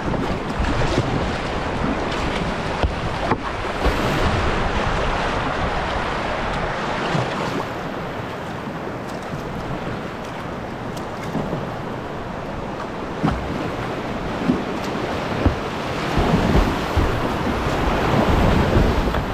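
Rushing water of a whitewater river rapid heard from a kayak, with a few short splashes and wind buffeting the microphone.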